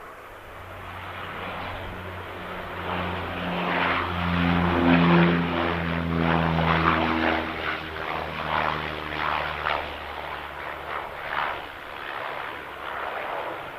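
Propeller airliner passing close by, its engine and propeller hum with a rushing noise growing to a peak about five seconds in, then fading. The hum drops slightly in pitch as it goes by.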